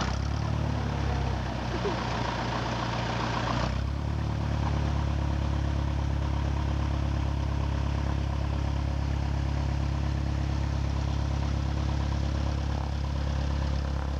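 Small single-engine piston airplane's engine idling steadily on the ground. The sound shifts about four seconds in, then holds even.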